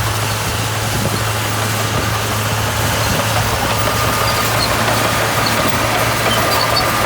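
Diesel engine of a heavy earthmoving machine running steadily, with a constant low hum under loud mechanical noise. A faint whine joins about halfway through.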